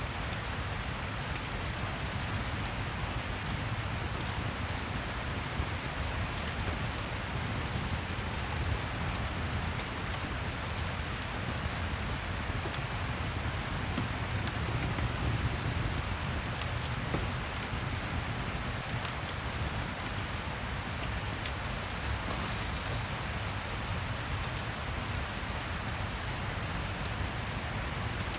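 Steady rain falling, with a low rumble underneath and scattered small crackles of a fireplace.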